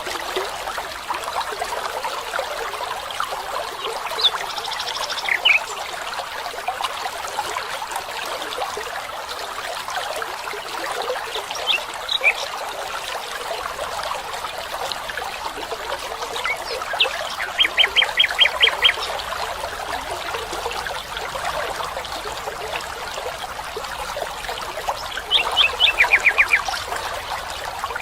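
Water flowing steadily, with birds calling over it: a few short, scattered calls, then two quick runs of repeated notes, one about two-thirds of the way through and one near the end.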